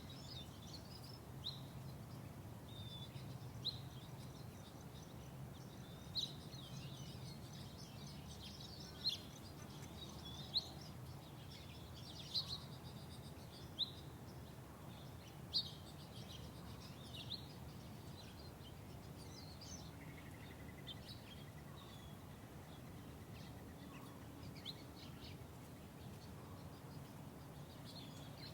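Small songbirds chirping outdoors: many short, separate high chirps and twitters at irregular intervals, busiest in the first half, over a steady low background hum of outdoor ambience.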